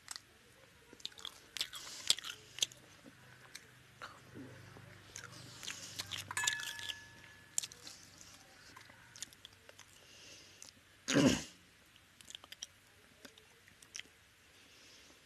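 Close-miked mouth sounds of a person eating rice and fish curry by hand: wet chewing and smacking with many small clicks, and one louder, longer mouth sound about eleven seconds in.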